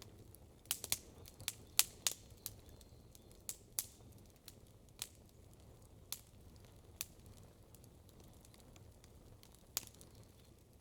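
Wood campfire crackling: irregular sharp pops, a quick cluster of them in the first two seconds or so, then single pops every second or two, over a faint steady low rumble.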